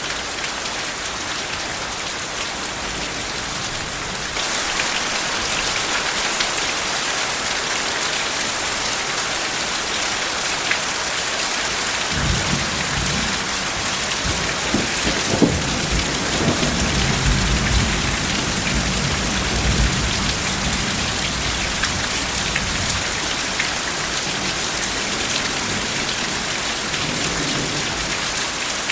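Steady rain falling, growing a little heavier about four seconds in. Partway through, a low roll of soft thunder rumbles in, swells for a few seconds and slowly fades under the rain.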